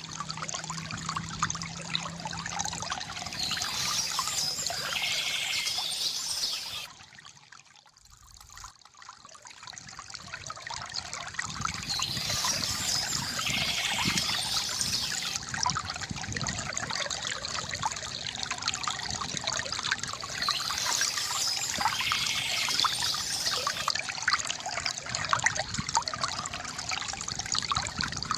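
Water trickling and pouring steadily from a bamboo fountain spout, with a brief drop in level about seven seconds in before it picks up again.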